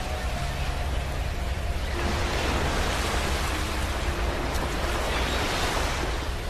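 Sea waves washing onto a beach: a steady hiss of surf that swells, growing brighter and fuller about two seconds in as a wave breaks and runs up the shore.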